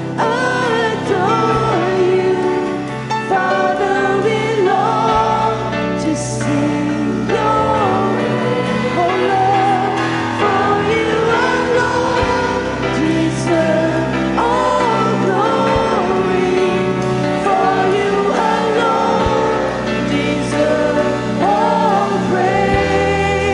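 Congregational worship singing with a band: many voices sing together over sustained keyboard and bass chords.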